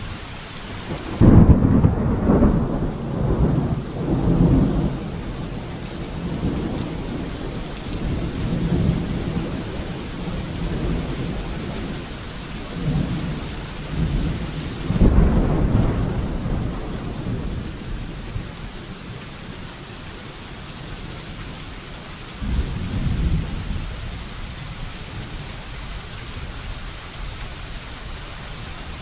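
Steady rain with thunder: a sudden loud peal about a second in that rolls on for several seconds, a second loud peal about halfway through, and a shorter rumble a few seconds later.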